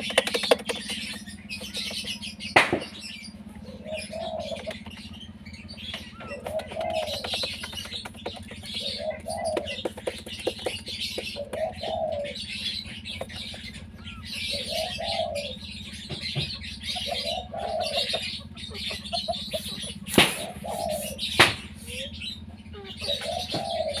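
Birds calling: a low call rising and falling in pitch, repeated about every two to three seconds, over higher chirping and a steady low hum. Two sharp knocks come near the end.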